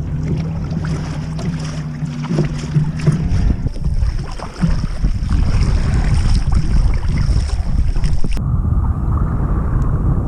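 Wind buffeting the microphone over choppy sea on a kayak, with a steady low hum for the first three seconds. The sound turns abruptly duller about eight seconds in.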